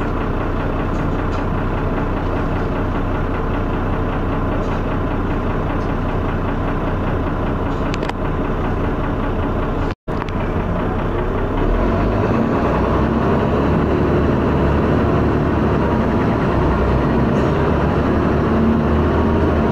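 Dennis Arrow bus engine running with a knock and thrash, the sign of a rough, worn engine. The sound cuts out for an instant about ten seconds in, then gets louder from about twelve seconds in.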